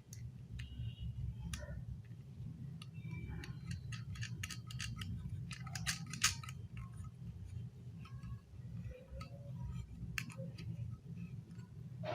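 Plastic toy building-block pieces clicking and tapping as they are handled and pressed together, a quick run of clicks about halfway through, over a steady low hum.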